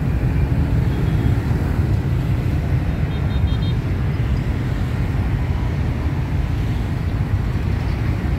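A steady low rumble of vehicle noise, with a few short, faint, high beeps about three seconds in.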